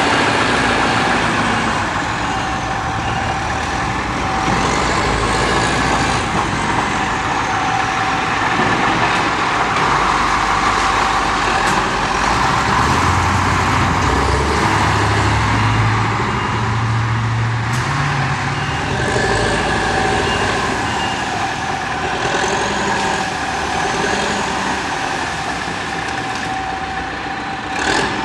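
Diesel engines of a front-end loader and a dump truck running as they work, the engine note rising for a few seconds near the middle.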